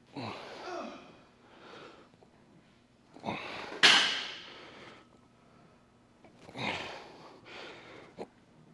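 A man's forceful breathing while lifting weights: sharp, noisy exhales every second or two, the loudest about four seconds in. There is one small click near the end.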